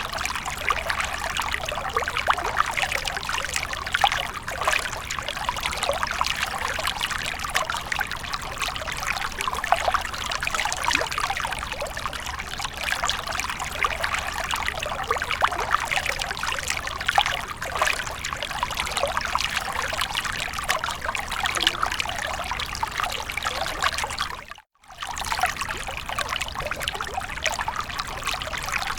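Water of a fountain falling and splashing, a steady trickling and pouring. The sound cuts out completely for a split second about three-quarters of the way through, then resumes.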